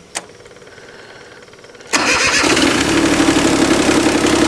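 A short click, then about two seconds in the Cub Cadet 1512's diesel engine fires and catches almost at once on a warm start and keeps running steadily.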